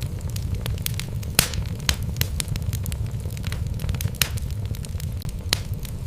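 Wood fire burning in a fireplace: irregular crackles and sharp pops from the logs over a steady low rumble, with one louder pop about a second and a half in.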